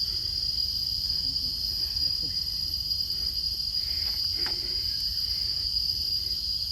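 Steady, high-pitched chorus of forest insects, cricket- or cicada-like, droning without a break.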